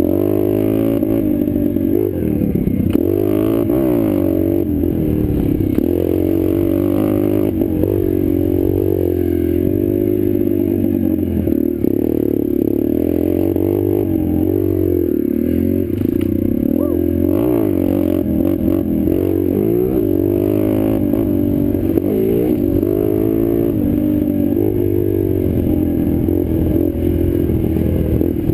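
Small four-stroke pit bike engine being ridden hard around a dirt track, its pitch rising and falling constantly as the rider revs up, shifts and backs off for turns.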